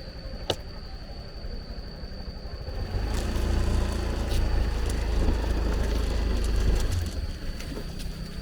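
Small motor scooter engine running as the scooter moves off, growing louder from about three seconds in and easing back a little before the end.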